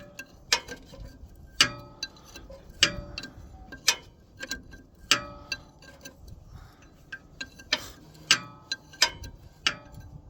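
Sharp metallic clicks and clinks, irregular and roughly one a second, some with a short ring: a wrench being worked and repositioned on a nut as it is backed off.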